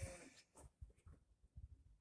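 Near silence, with a few faint, short low knocks scattered through it.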